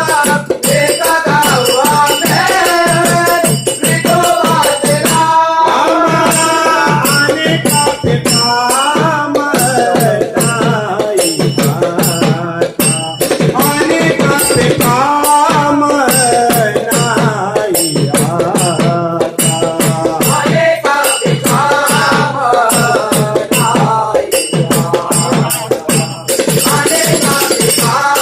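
A group singing a Marathi devotional bhajan in unison, over fast, steady percussion with a bright, jingling, rattling edge.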